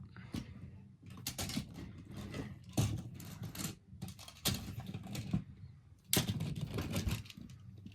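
Die-cast toy monster trucks clattering and clicking against each other as a hand rummages through a box of them, in irregular bursts.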